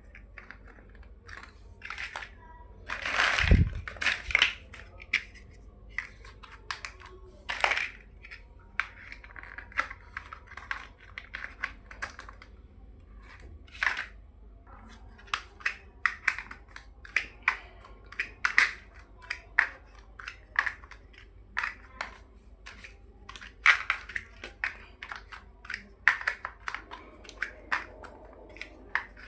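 Small plastic building bricks being handled and snapped together: irregular sharp clicks and taps, with one heavier knock about three and a half seconds in.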